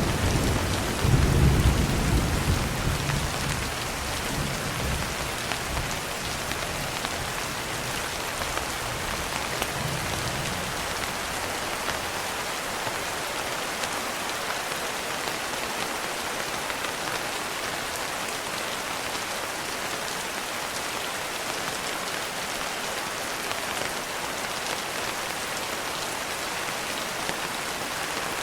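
Steady heavy rain, with a low roll of thunder at the start that fades away over the first few seconds, then unbroken rainfall.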